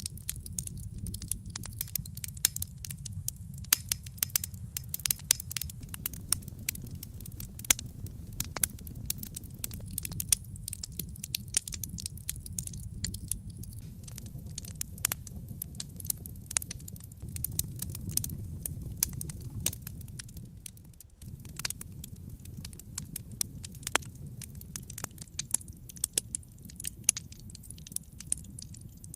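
Wood fire burning in a fireplace: dense, irregular crackles and sharp pops over a steady low rumble of flame. The rumble drops out for a moment about three-quarters of the way through.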